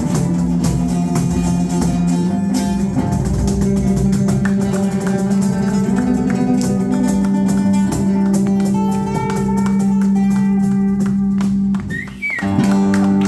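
A live band playing, guitar to the fore, with no singing; the music dips briefly near the end, then comes back on held notes.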